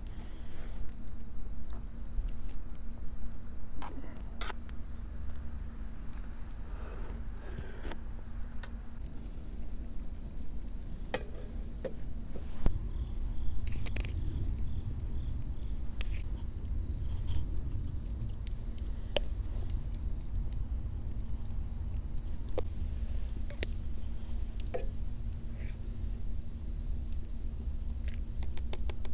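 Autumn crickets trilling steadily in one continuous high-pitched note, with scattered light clicks and knocks.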